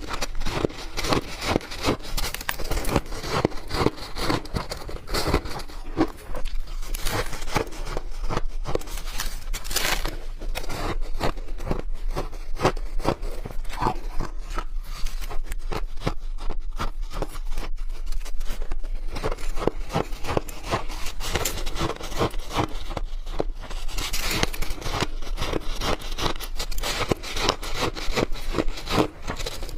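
Close-up crunching of soft, chunky freezer-frost ice being bitten and chewed, a dense crackly run of crunches with brief lulls.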